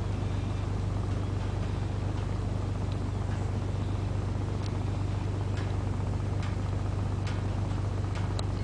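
Boat engine running steadily: an even low drone with a constant hiss over it and a few faint ticks.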